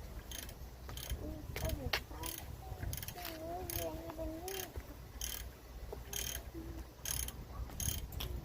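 Ratchet wrench being worked in short, irregular rasping strokes on the brake hardware. A brief wavering hum sounds about three seconds in.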